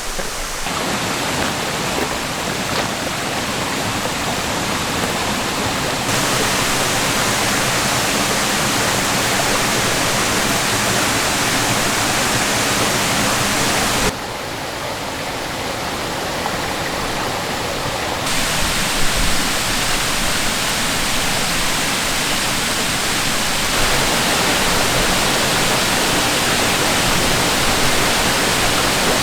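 Creek water running steadily, a continuous rushing and babbling whose loudness and brightness change abruptly several times.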